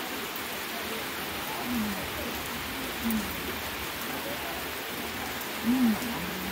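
Heavy rain falling steadily, with a few short low hums from a person's voice, about two seconds in, about three seconds in, and loudest near the end.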